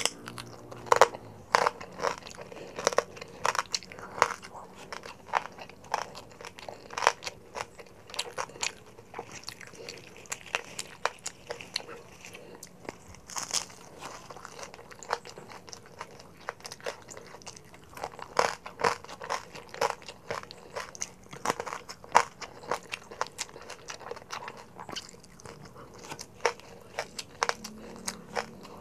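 Close-miked eating sounds of crispy lechon kawali, Filipino deep-fried pork belly with crackling skin, being bitten and chewed: a run of irregular sharp crunches with wet chewing between them.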